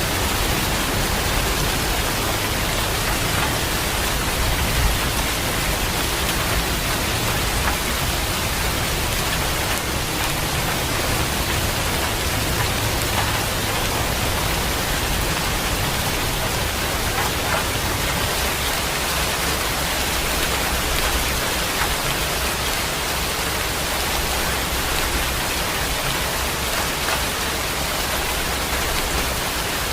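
Steady heavy rain falling, an even hiss with scattered drop patter and a low rumble underneath.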